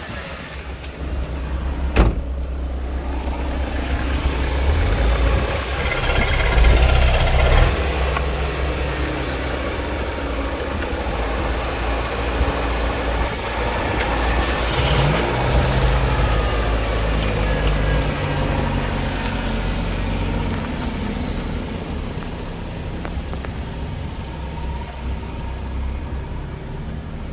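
Peugeot 308's 1.6-litre EP6 (5FW) petrol four-cylinder engine running steadily at idle, with a single sharp click about two seconds in and a few seconds of slightly louder running soon after.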